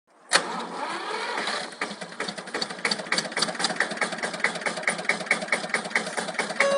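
Tractor engine running, changing about two seconds in from a rougher sound to a steady, even idle of about five beats a second.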